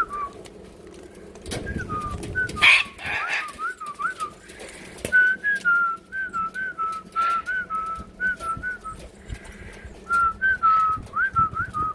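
A bird giving a long run of short whistled chirps, each with a quick flick in pitch, a few a second, with a brief louder, rougher call about three seconds in.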